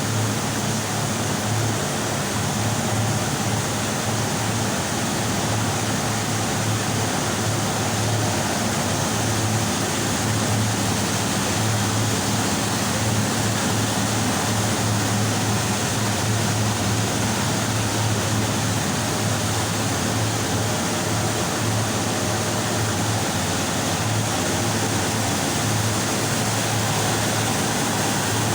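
Industrial combi steam boiler running under test: a steady, loud rushing roar with a wavering low hum underneath.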